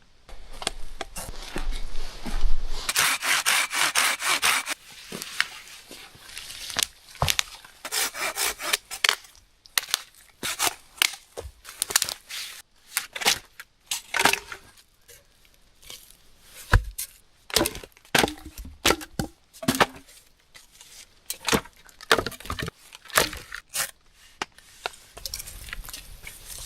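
Firewood being cut and broken up: a quick run of rasping strokes about three seconds in, then scattered sharp cracks and knocks of wood being snapped and handled.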